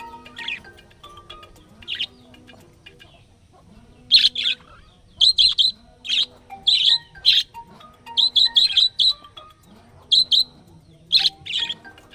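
Budgerigar chirping in short, sharp, high calls: a couple of single chirps at first, then from about four seconds in a rapid run of loud chirps, several a second, with brief pauses. Soft background music with a repeating melody plays underneath.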